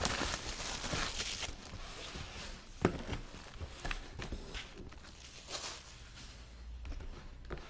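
Hands opening a sealed trading-card box: rustling and tearing of packaging at first, then handling of cardboard and plastic with a few sharp clicks and taps, the loudest about three seconds in.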